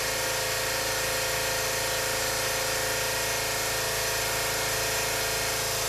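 An engine running steadily at an even speed, a constant hum with no change in pitch or level.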